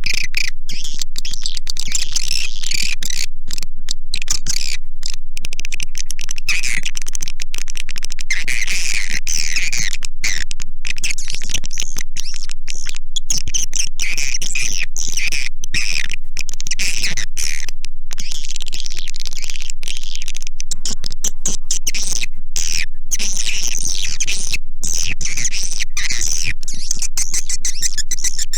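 Recorded swiftlet calls: a dense, continuous twittering of high chirps, broken by many brief dropouts. This is a lure call track of the kind played in swiftlet houses to attract the birds.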